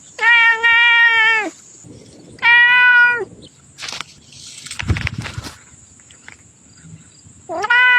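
Domestic cat meowing: two long, level meows, each falling away at its end, then a third starting near the end. A soft rustle lies between them.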